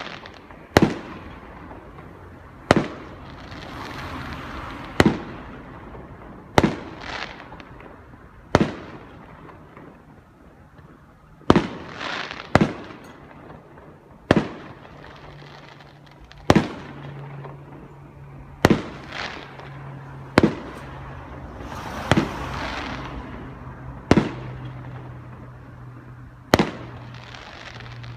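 Aerial firework shells bursting one after another, about every one to two seconds, each a sharp bang heard from a distance. Several bursts are followed by a hiss lasting a second or two.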